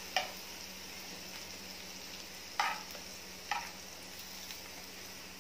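Spinach vadi slices shallow-frying in oil in a flat iron pan, sizzling steadily, with three short clinks of a metal spatula against the pan as the pieces are turned over.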